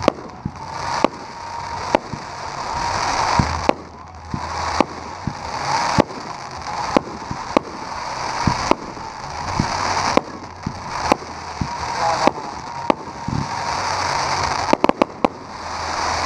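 Consumer fireworks cake (Zombie Slayer) firing shots about once a second, each bursting into hard-hitting crackling willows. A quick run of four shots comes near the end.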